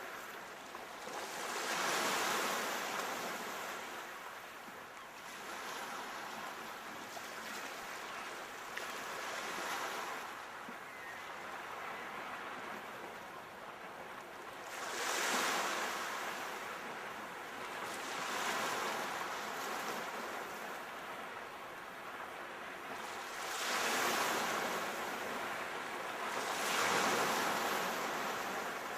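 Sea waves breaking and washing on the shore, a steady rush of surf that swells several times as waves break, most strongly about 2, 15, 24 and 27 seconds in.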